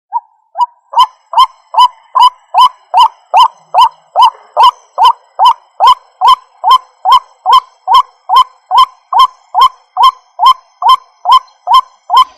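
White-breasted waterhen (ruak-ruak) calling: a short, loud note repeated steadily about two and a half times a second, starting abruptly out of silence.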